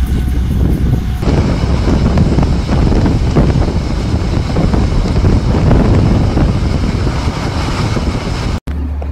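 Steady rush of wind and deep running rumble of an intercity express train at speed, heard from beside an open window of the moving train. The sound changes at an edit about a second in and drops out for an instant near the end.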